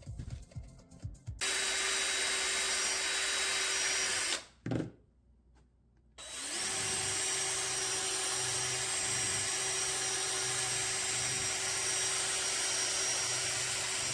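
Electric power tool motor running steadily for about three seconds and stopping. It starts again a couple of seconds later, winds up quickly and runs steadily to near the end.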